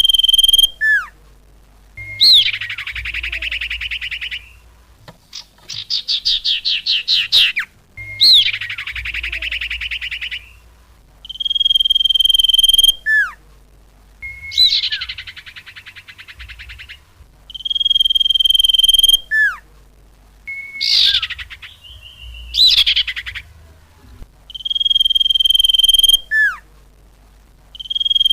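Bird-lure call recording for trapping small birds (sirtu, cupon, diku) played on a loop. A held, steady whistle ends in a quick downward flick, then comes a burst of buzzy, chattering trills, and the whole phrase repeats about every six seconds.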